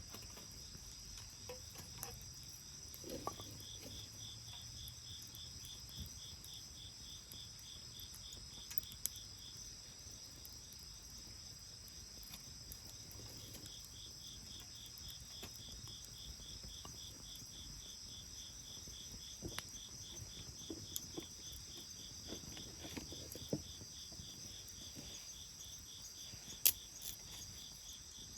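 Crickets chirping steadily, with one fast pulsing trill over a steady high-pitched insect chorus. Scattered sharp pops and crackles of the burning bonfire wood come through now and then, the loudest one near the end.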